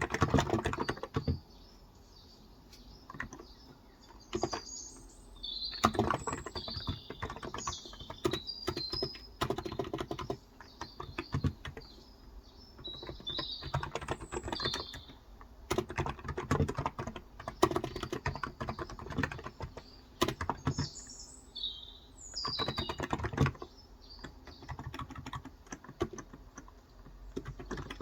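Typing on a Cox Endeavour electro-capacitive (topre-style) tenkeyless keyboard with light 35 g switches, in bursts of keystrokes broken by short pauses. Birds chirp in the background.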